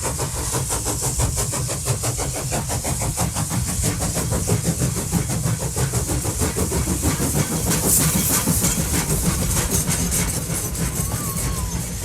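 Car engine running with road noise, a steady low rumble and hiss crossed by a fast, even pulsing.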